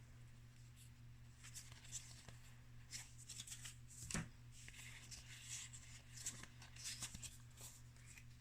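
Magic: The Gathering trading cards being slid one over another by hand as a pack is looked through: faint, quick scratchy swipes, one louder about four seconds in, over a steady low hum.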